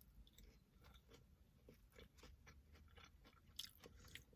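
Faint chewing: a person eating, with soft scattered mouth clicks and a slightly louder click or crunch a little past three and a half seconds.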